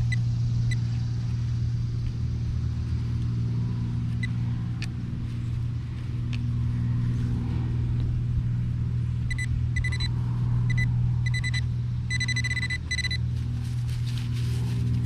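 A steady low engine-like hum under everything, with a metal detector giving short, high electronic beeps in quick runs between about nine and thirteen seconds in as it sounds on a target.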